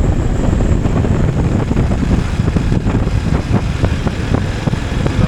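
Motorcycle under way: the engine runs steadily beneath a continuous low rumble of wind on the microphone.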